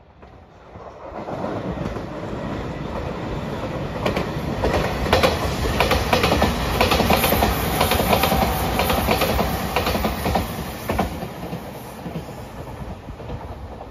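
JR Shikoku 8000 series limited express electric train passing by, its wheels clacking rhythmically over the rail joints. The sound builds from about a second in, is loudest in the middle as the cars go past, and fades near the end.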